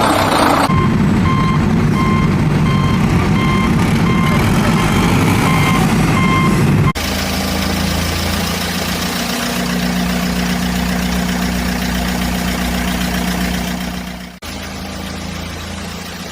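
A vehicle's reversing beeper sounds a steady, evenly spaced series of beeps over a running engine. About seven seconds in the sound cuts abruptly to an engine running steadily.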